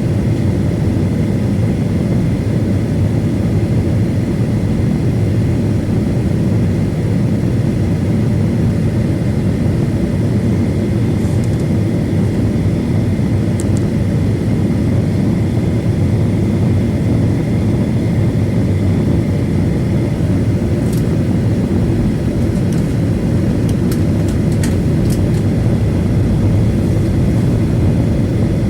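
Boeing 737 airliner taxiing, its jet engines giving a steady low rumble with a faint thin whine, heard from inside the passenger cabin. A few faint clicks sound in the second half.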